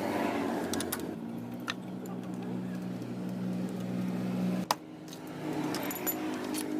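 A motor running steadily with a hum, dropping to a lower pitch about a second in, then cutting off with a click. A higher-pitched hum starts again near the end.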